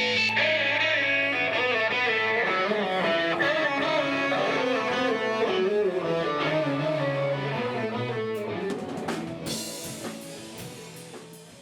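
Rock music with electric guitar and drums, fading out over the last few seconds.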